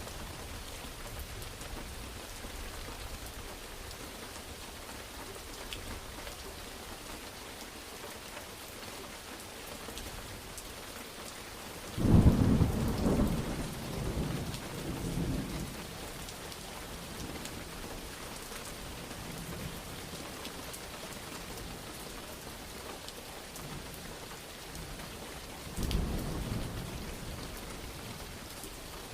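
Steady rain falling. A sudden loud thunderclap rolls into rumbling about twelve seconds in, and a weaker rumble of thunder follows near the end.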